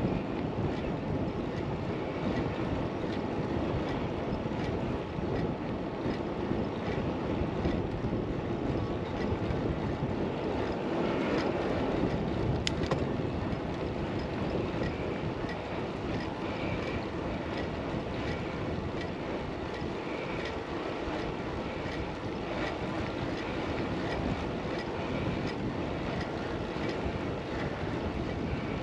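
Steady rush of wind over a GoPro's windscreened microphone while riding a bicycle, with a single faint click about halfway through.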